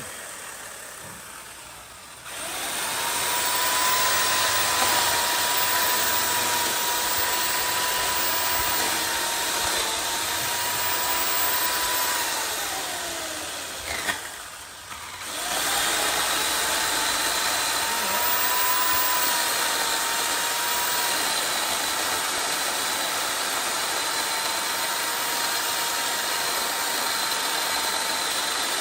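Chainsaw revving up and running at high speed while cutting wood. About halfway through it winds down, goes nearly quiet for about a second, then revs up again and runs steadily.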